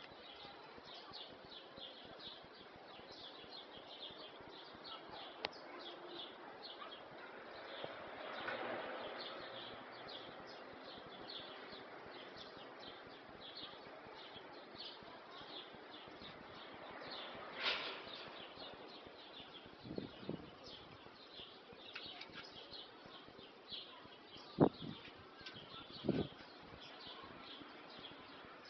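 Small birds chirping repeatedly in short high notes, about three a second, with a few brief louder sounds in the last third.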